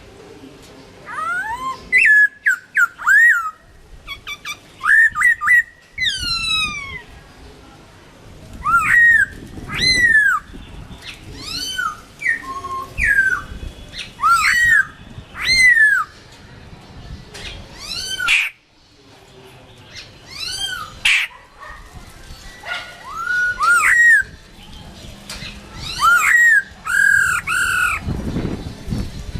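Chinese hwamei (gabichō) singing: a long run of loud, varied whistled phrases, the notes sweeping up and down in pitch, with short pauses between phrases.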